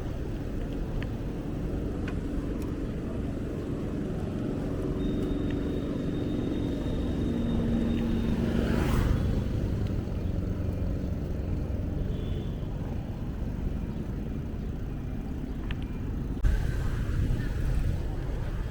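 Street traffic: motorbikes and other vehicles running past over a steady low rumble, one passing close about nine seconds in.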